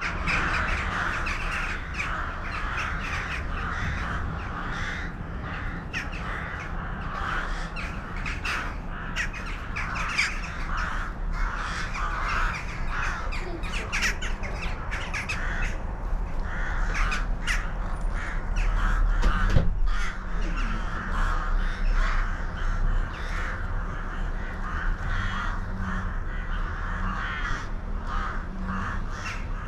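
A flock of birds calling together, a dense unbroken chorus of short, overlapping calls.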